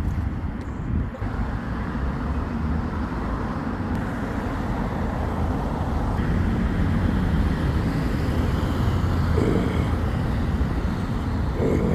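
Road traffic noise: a steady low rumble of motor vehicles on the road, swelling a little about halfway through.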